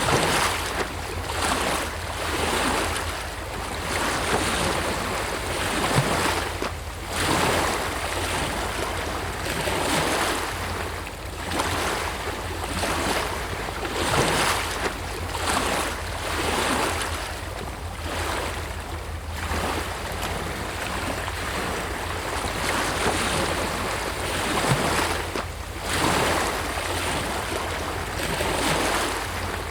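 Sea waves breaking and washing in, surging and receding every few seconds.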